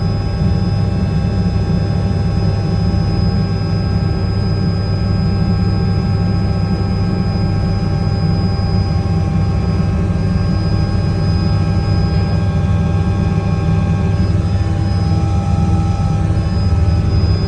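Army helicopter's turbine engines and rotor running, a steady high whine over a low, heavy rumble, swelling slightly near the end.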